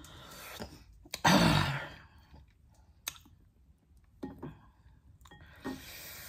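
Close-up eating sounds of fried chicken wings being chewed, with scattered sharp mouth clicks and smacks. A louder breathy burst comes about a second in.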